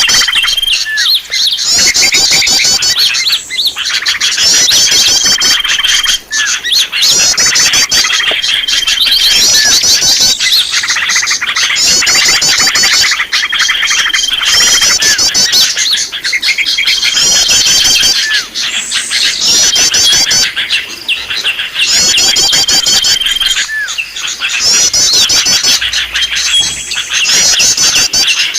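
Small songbirds chirping busily on a bird-lure recording. Bursts of rapid high trills alternate with a short held whistle note, repeating about every two seconds as a loop.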